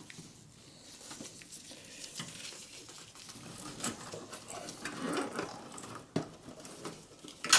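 Faint rustling and light plastic clicks of computer cables being handled and a SATA cable being plugged into an optical drive inside a desktop PC case, with a sharper click near the end.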